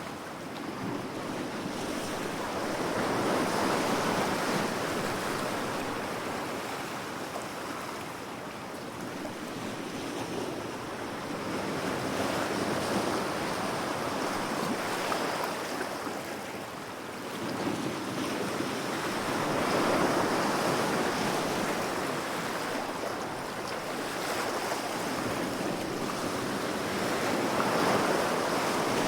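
Sea waves washing in and drawing back, a steady rush of surf that swells about every eight seconds, four times.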